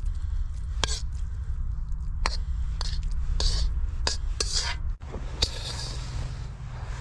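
A spoon scraping and clinking against cookware as rice is stirred together with bits of cured pork rib, in irregular strokes over a steady low hum.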